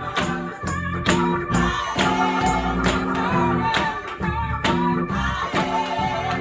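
Gospel music: singing over guitar and bass, with a steady beat of percussion strikes about twice a second.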